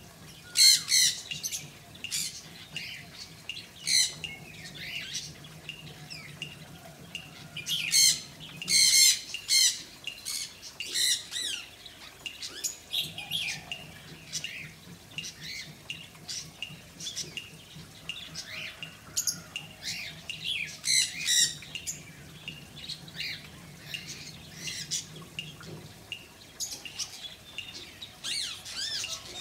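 Pet birds chirping and squawking, many short high calls coming in quick runs.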